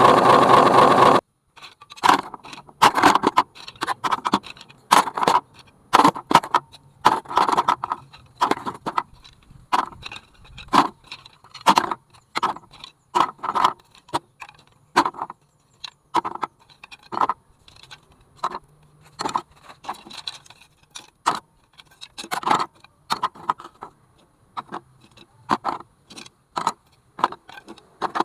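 Irregular hard clacks and rattles, a few a second, of bamboo sticks knocking together on a model truck. A loud steady sound cuts off about a second in.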